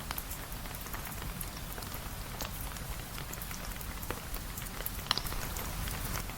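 Steady rain falling, with a low rumble underneath and scattered sharp ticks of drops striking a surface; one tick about five seconds in is louder than the rest.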